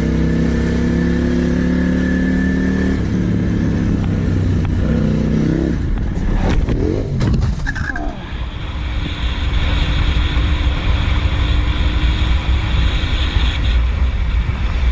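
Motor vehicle engine running on the road with road and wind noise; its pitch shifts several seconds in. A short cluster of sharp knocks comes about halfway through.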